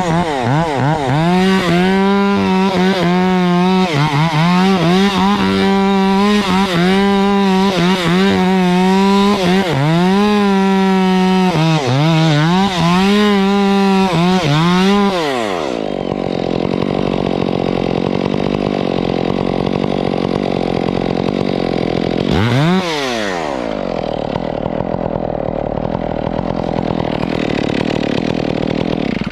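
Two-stroke Stihl chainsaw running at full throttle, its revs dipping and recovering again and again as it cuts. About halfway through the throttle is released and the engine winds down to idle, with one quick blip of the throttle a few seconds before the end.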